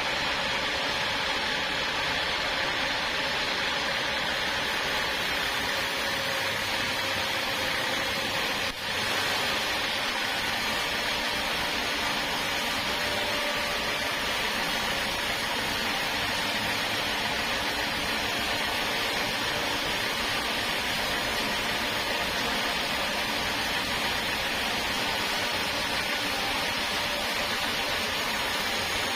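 Sawmill machinery running steadily, a constant mechanical hiss and hum typical of the saw working through a log, with a momentary dip just under nine seconds in.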